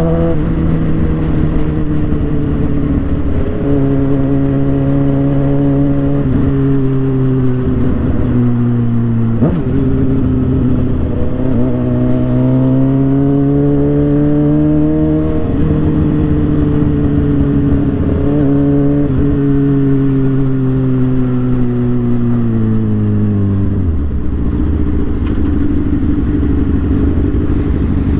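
Suzuki GSX-R 750's inline-four engine pulling under way. The pitch climbs slowly, then drops sharply at each gear change, several times over. Near the end the engine note falls away as the throttle is closed, leaving wind rumble on the microphone.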